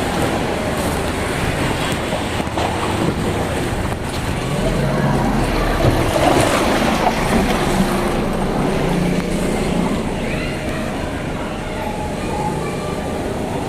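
Floodwater from overflowing drain pipes rushing and splashing, with traffic noise mixed in.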